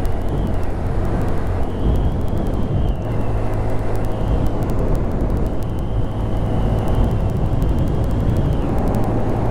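Honda Grom's 125 cc single-cylinder engine running steadily while riding, mixed with rushing wind noise. A faint high whine comes and goes several times.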